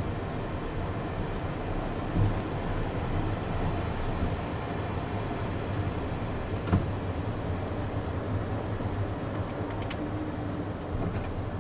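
Cockpit noise of a Beechcraft Premier I at takeoff power: a steady low rumble under a faint high whine from its twin Williams FJ44 turbofans. Two sharp thumps come about two and seven seconds in.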